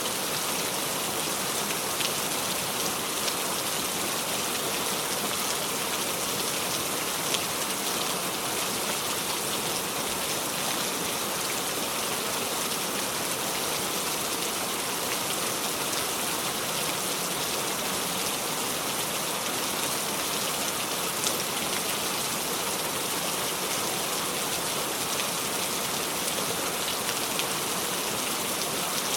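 Steady heavy rain falling on a surface, with the odd distinct drop standing out, and no thunder.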